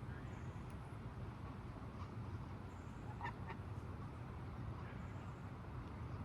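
Ducks calling: two short calls about three seconds in, with a few faint high peeps, over a steady low rumble.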